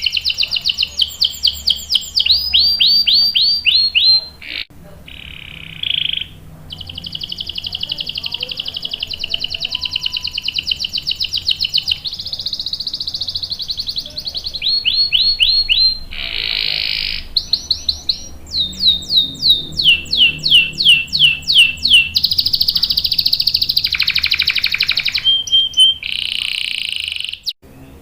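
Domestic canary singing a long song of rolls and trills: runs of fast, repeated down-sweeping notes alternating with buzzy held rolls, the song changing every second or two, with a brief drop in loudness about five seconds in and a short break near the end.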